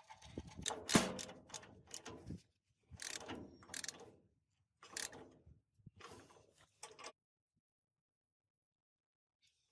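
Irregular metallic clicks and clanks of machine parts being handled and fitted, stopping about seven seconds in.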